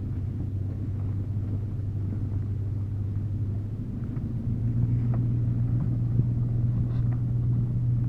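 Truck engine running in a steady low drone while towing, its pitch and level stepping up slightly about four and a half seconds in, with a few faint clicks over it.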